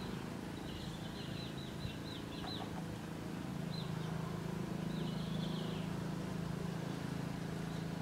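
Faint, short, high chirping bird calls in three brief bouts over a steady low hum.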